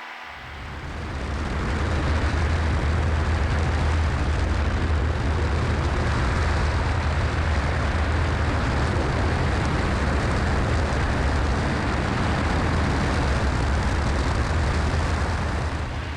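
Cessna 172SP's four-cylinder Lycoming engine and propeller droning steadily with airflow noise inside the cabin. It fades in over the first two seconds and fades out near the end.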